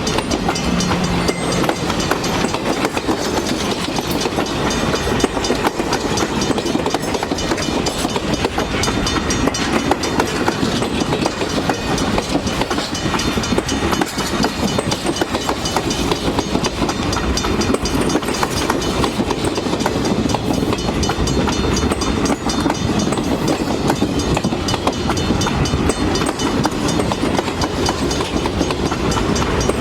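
Train running along the track: a steady rumble with rapid clicking and clattering of wheels on the rails.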